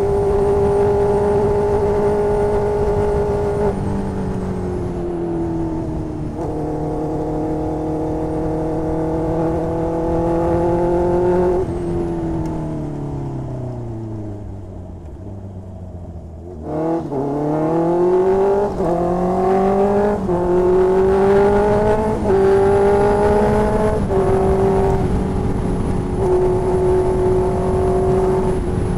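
2020 Honda CB650R's inline-four engine through an aftermarket exhaust, heard while riding: it pulls through a couple of gears, the pitch falling slowly and quieter as the throttle is closed, then it revs up hard about two-thirds of the way in with several quick upshifts before cruising steadily near the end.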